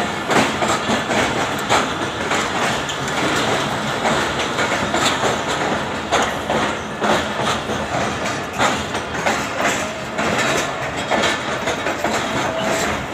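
Express passenger train's coaches rolling past, the wheels clattering over the rail joints in a steady run of clicks and knocks.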